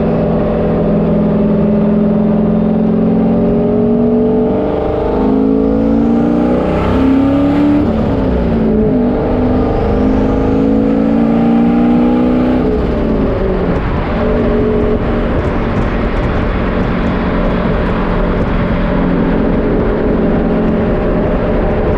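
Car engine running, its pitch shifting up and down for several seconds in the middle, as in revving or changing speed, then holding steady.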